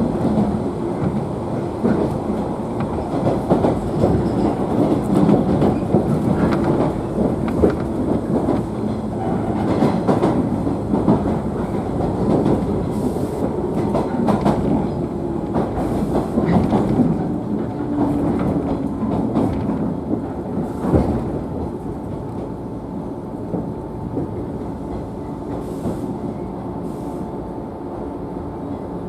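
Running noise inside a JNR 113-series electric train's motor car: a steady rumble with wheels clicking over rail joints. From about the middle a thin steady whine sits over the rumble, and the noise eases off in the last third as the train slows.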